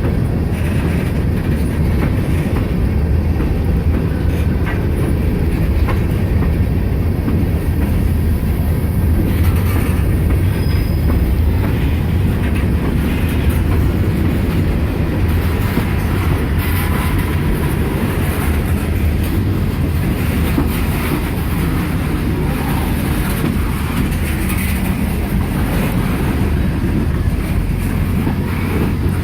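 Freight cars of a slow-moving CSX manifest train rolling past: a steady low rumble with wheels clicking over the rail joints.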